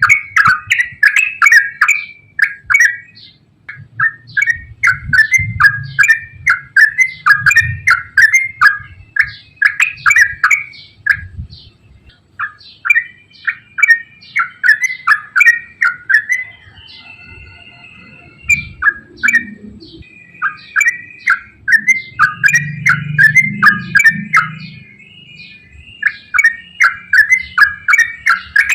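Yellow-vented bulbul (trucukan) singing long, rapid runs of bubbly chirps, broken by a few short pauses.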